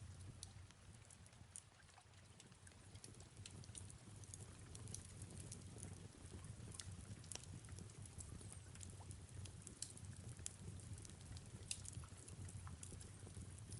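Faint fireplace crackling: irregular sharp pops and ticks over a steady low hum and a soft hiss of falling rain.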